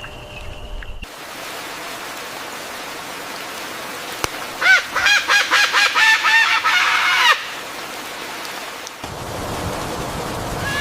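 A bird giving a quick run of about ten short honking calls, over a steady outdoor background.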